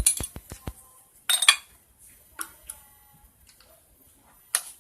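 Metal tools and engine parts clicking and clinking during a motorcycle engine teardown: a quick run of about six sharp ticks at the start, then scattered single clinks and short clusters.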